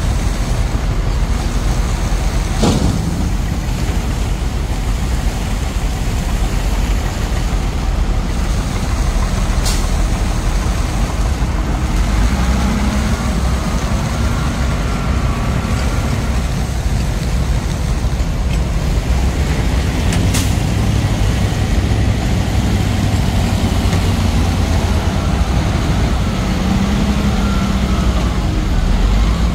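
Heavy truck's engine running steadily under way, with road noise. A few brief sharp hisses or clicks cut through it.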